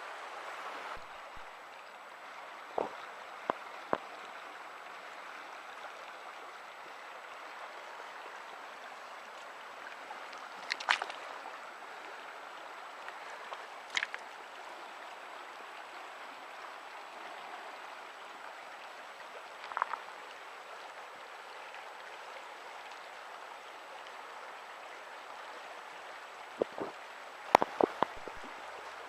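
Steady rush of a small mountain river flowing over stones. Scattered sharp clicks and knocks come through it, several in quick succession near the end.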